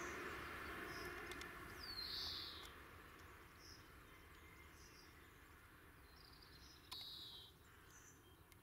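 Small birds calling faintly outdoors: short high chirps about once a second, with a louder sweeping call about two seconds in and another near the end. A soft hiss fades away over the first few seconds.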